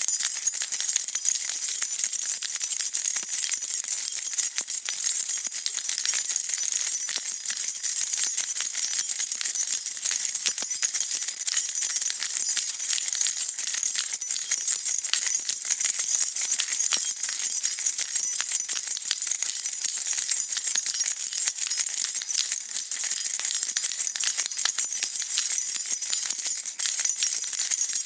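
A bunch of metal keys jingling continuously as they are shaken, a dense, steady jangle with no pauses.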